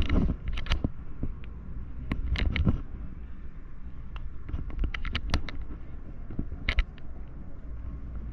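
City street ambience: a steady low rumble of traffic with scattered sharp clicks and knocks close by.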